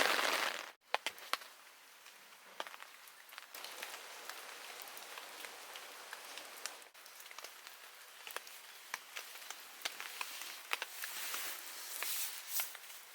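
Irregular light crackles and ticks over a faint steady hiss, following a louder rushing noise that cuts off just under a second in.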